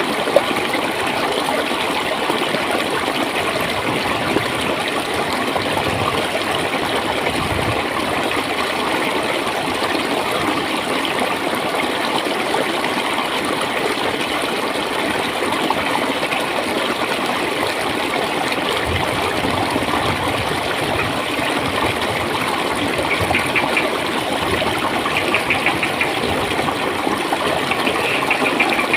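Flowing stream water gurgling in a steady, unbroken rush.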